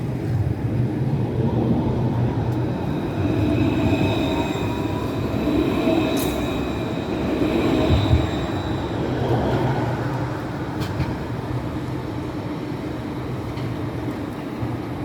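Tram running on its rails with a steady low rumble. High, thin wheel-squeal tones hold for several seconds in the middle, with a sharp click partway through.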